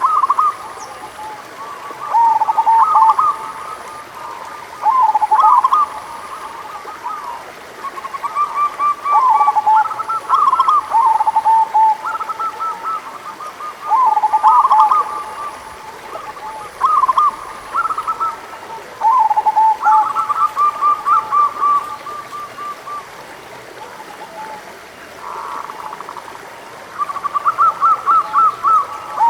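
Zebra doves (perkutut) cooing: repeated phrases of quick rippling notes ending in a longer coo. Calls at two pitches overlap, so more than one bird is calling, with short pauses between phrases.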